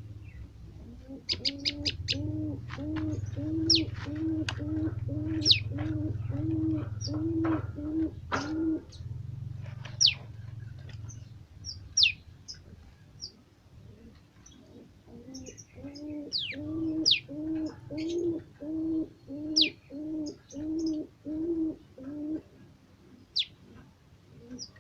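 A dove cooing in two long runs of short, evenly repeated low notes, about two a second. Sharp, high, down-slurred chirps from small birds are scattered throughout.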